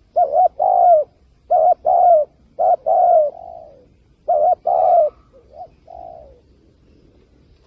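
Spotted dove cooing: four phrases of two short notes and a longer falling coo in the first five seconds, then two fainter notes and a pause.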